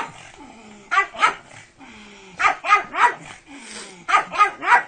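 A dog barking in quick groups of two or three barks, about eight barks in all.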